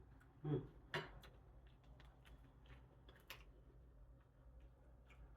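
Quiet chewing of fried catfish close to the mic: a brief hummed "mm", then a scatter of sharp mouth clicks and lip smacks, the loudest about a second in and just after three seconds.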